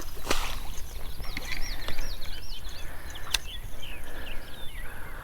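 A songbird singing a run of quick whistled notes that rise and fall, with two sharp clicks, one near the start and one a little past the middle.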